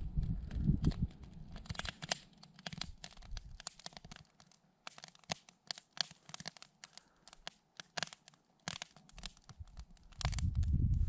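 Wood campfire crackling, with irregular sharp pops and snaps. A low rumble lies under it for the first few seconds and comes in again loudly near the end.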